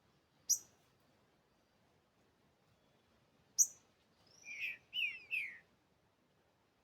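Green-winged saltator (trinca-ferro) giving two sharp, high call notes about three seconds apart, then a short phrase of three quick slurred whistled notes: its 'cachorro louco' song type.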